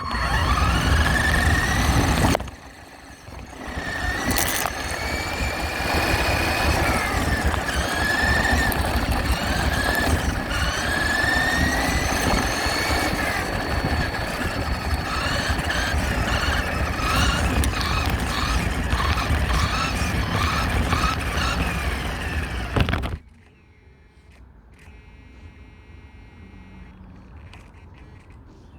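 Radio-controlled truck's motor whining, rising in pitch again and again with bursts of throttle over rough rumbling noise. It pauses briefly a couple of seconds in, runs on, then cuts off suddenly about 23 seconds in.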